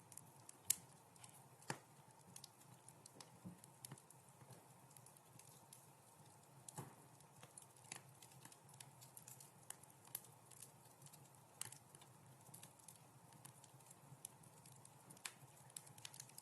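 Wood fire crackling: irregular sharp pops and snaps over a faint steady hiss, with one loud pop less than a second in.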